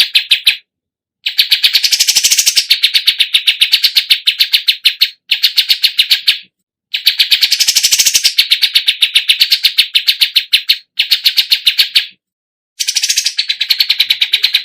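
Songbird chirping a fast, even run of sharp high notes, about ten a second, in long phrases cut by a few abrupt short gaps: a looped recording of birdsong.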